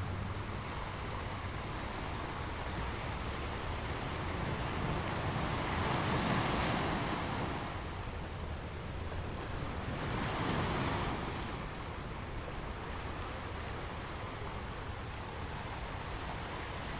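Steady rushing wash of wind and sea waves, swelling louder twice, about six and ten seconds in.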